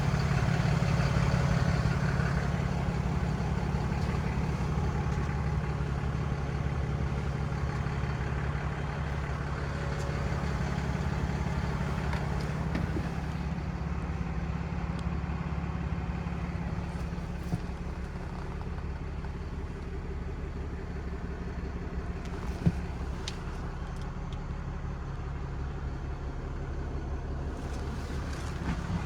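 Ram 5500 heavy-duty truck engine idling steadily, slowly growing quieter over the first half, with a single sharp tap a little after twenty seconds in.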